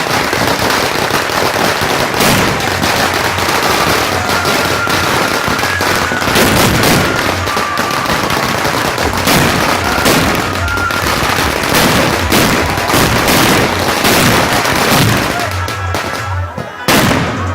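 Noise firecrackers going off in a dense, continuous crackle of rapid bangs, with one louder bang near the end.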